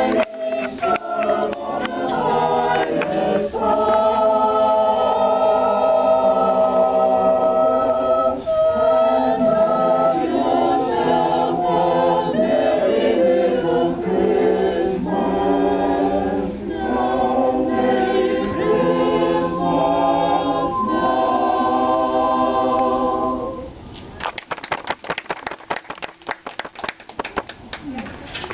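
Small choir singing a carol a cappella in several parts, holding a last chord that ends about four seconds before the end, followed by scattered clapping.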